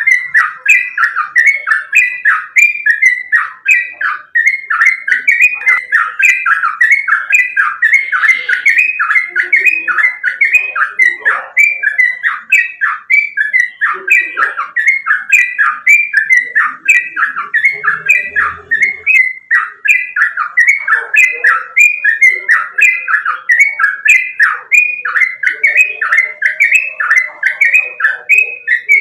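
Yellow-vented bulbul (trucukan) calling in an unbroken run of short repeated notes, about two a second.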